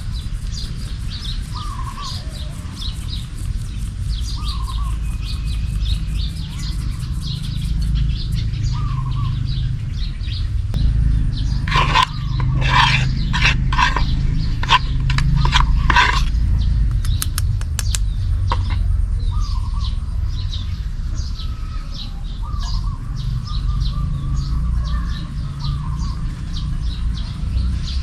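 Small birds chirping repeatedly over a steady low rumble, with a short run of sharp, louder notes about halfway through.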